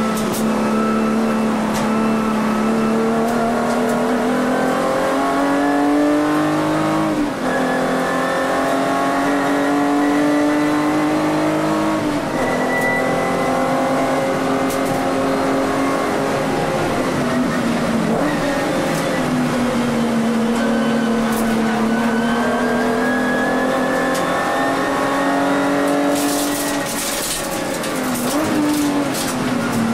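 Volkswagen Vento VR6 race car's VR6 engine heard from inside the cabin, pulling hard under racing load. Its note climbs steadily and drops abruptly at each gear change, about four times. A run of sharp clicks and rattles comes near the end.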